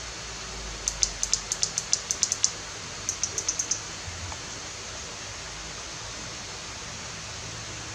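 Two quick runs of short, high clicks, as the buttons of a lighting studio's remote control are pressed repeatedly: about a dozen in the first run and about five in the second. A steady hiss sits underneath.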